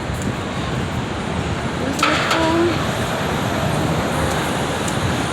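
City street traffic noise, steady, with a sudden louder swell about two seconds in.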